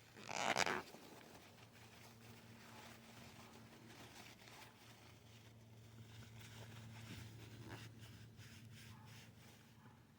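A short, loud rasping scrape about half a second in, then faint scattered scraping and rubbing: softened old paint being worked off a metal pedal handle, over a steady low hum.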